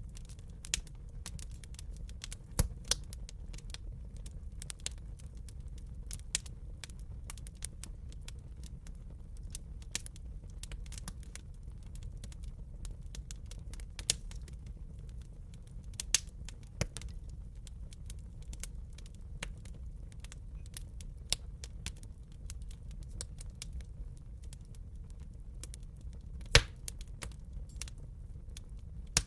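Wood fire burning in a fireplace: irregular crackles and sharp snaps over a low steady rumble of the flames, with a few louder pops, the loudest near the end.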